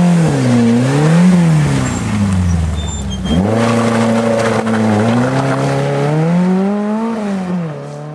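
Rally car engine revving hard, its note climbing and dropping several times as the driver accelerates and changes gear, with a sharp jump in revs about three seconds in.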